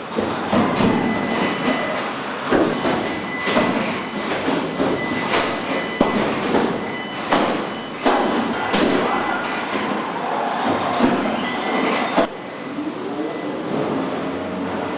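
Assembly-line machinery in a truck factory: irregular metallic clanks and knocks over a steady high-pitched hum. About twelve seconds in the sound changes abruptly to a quieter mechanical hum with gliding tones.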